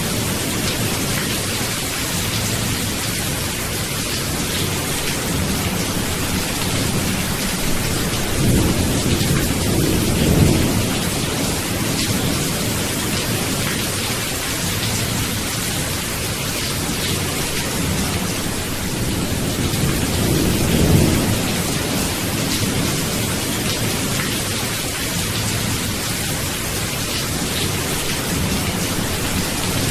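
Steady heavy rain, a constant hiss, with low rumbles of thunder swelling up twice, around ten seconds in and again near twenty-one seconds.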